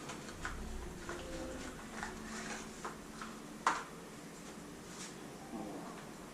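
Light handling clicks and taps, with one sharper click about three and a half seconds in, as a new oil filter is fitted into the motorcycle engine's filter housing.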